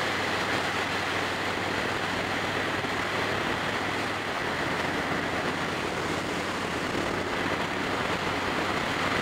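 Yamaha Raider's big V-twin running at a steady highway cruise, with steady wind and road noise over the bike-mounted microphone.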